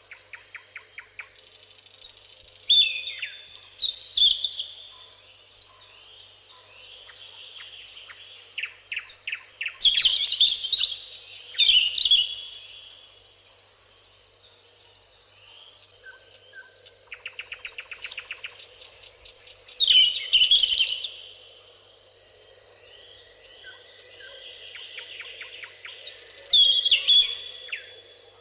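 Several songbirds singing and calling over one another, with whistled phrases, sharp chirps and rapid trills, the loudest outbursts coming in several bouts. A steady high-pitched hum runs underneath.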